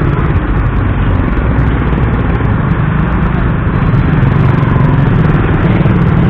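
Steady engine and road rumble of a motorcycle ride through heavy traffic with dump trucks, with no single event standing out.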